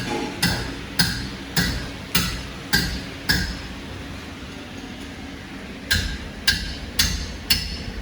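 Sharp metal-on-metal taps with a short ring, a little under two a second: a run of about seven, a pause of a couple of seconds, then about four more.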